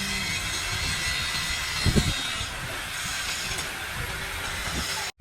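High-pressure jet hissing steadily and loudly, with a single low thump about two seconds in. The hiss cuts off suddenly just before the end.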